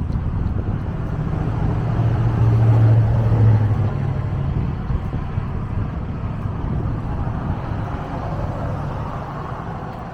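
Traffic on an adjacent road: a car passes, its low engine hum swelling about two seconds in and fading after four, over steady road noise.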